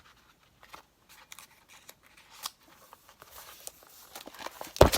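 Scissors snipping paper, a scatter of small quiet clicks as a cut-out is trimmed, with one sharp knock near the end that is the loudest sound.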